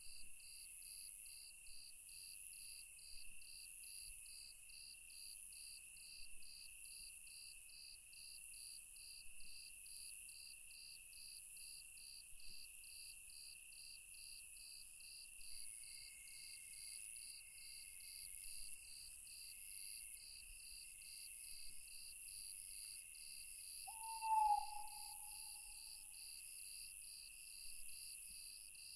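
Night-time insect chorus of crickets chirping in an even, steady pulse over a continuous high trill, with a single owl hoot late on, the loudest sound.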